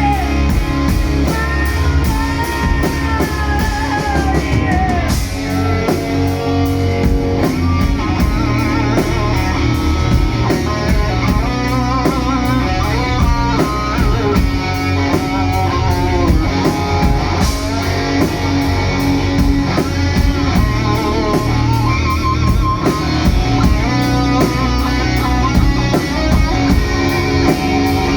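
Live rock band playing an instrumental passage: an electric guitar lead with wavering, bent notes over bass and drums.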